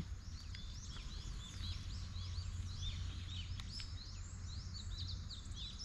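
Small birds singing: a continuous stream of short, high chirping notes, over a low steady rumble.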